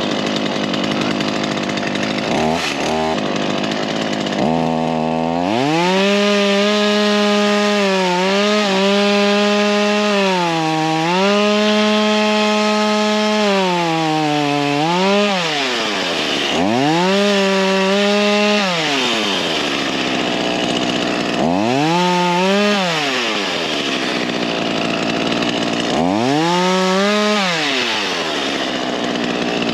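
Ryobi 37cc two-stroke gas chainsaw idling, then revved to full speed and cutting wood, the throttle let off and squeezed again several times so the engine pitch falls and climbs between cuts.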